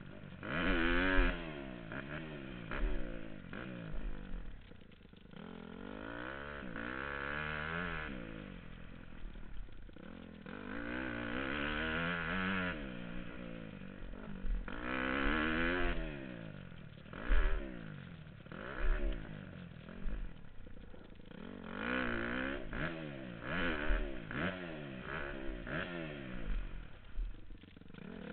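Dirt bike engine revving up and falling off again and again as the rider works the throttle through jumps and corners, heard from the rider's helmet camera. A few sharp low thumps stand out, the loudest near the start and at about two-thirds of the way through.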